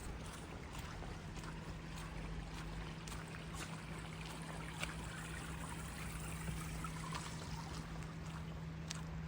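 Steady running water and rain, with scattered light taps of footsteps and a steady low hum underneath.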